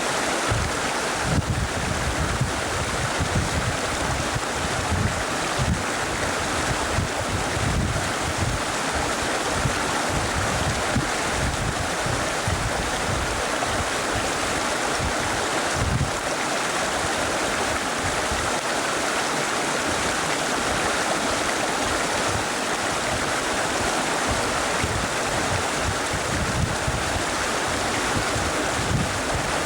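Steady rush of river water, with wind buffeting the microphone in irregular low gusts.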